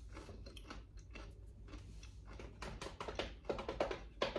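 Close-miked chewing of a crunchy snack with the mouth closed: faint, quick crunching clicks that grow denser and a little louder from about halfway.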